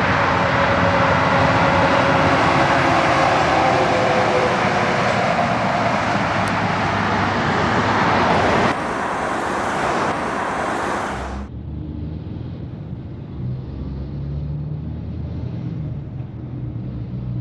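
Highway traffic with trucks passing close by: loud tyre and engine noise with a slowly falling engine tone. About eleven seconds in it cuts off abruptly to a quieter, low engine sound.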